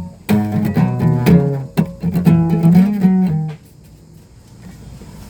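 Guitar played with plucked notes, a quick run of picked chords that stops about three and a half seconds in, leaving only a faint hum.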